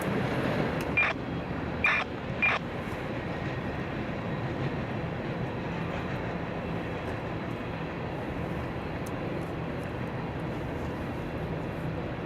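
Long freight train rolling past, a steady rumble of wheels on rail. Three short, sharp high-pitched squeaks come between about one and two and a half seconds in.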